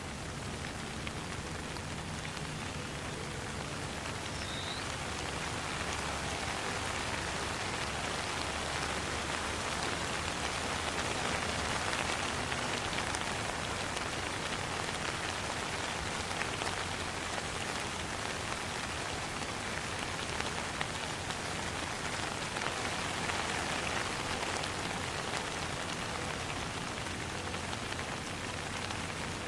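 Steady rain falling: an even, dense hiss of many drops that swells slightly in the middle.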